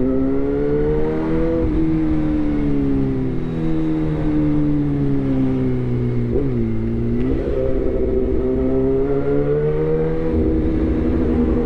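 Suzuki GSX-R1000 inline-four engine through a replica SC-Project exhaust, under way. The revs climb, drop suddenly about two seconds in as if on a gear change, then fall slowly for several seconds. They dip briefly and climb again from about halfway through, before holding steady near the end.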